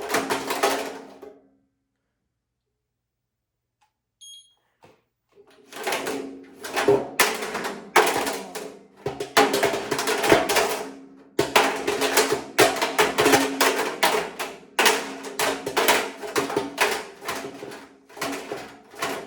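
Calculator tumbling inside the drum of an LG WM6700HBA front-load washer, clattering and banging loudly against the drum over and over, at an uneven rhythm. The sound drops out for a few seconds near the start.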